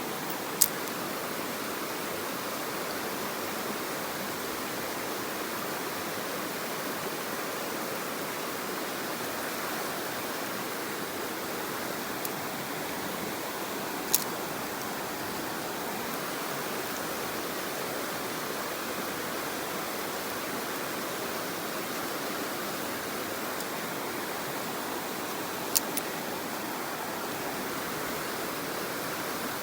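Mountain stream rushing steadily. A few sharp clicks stand out: one about half a second in, one near the middle and a double click near the end.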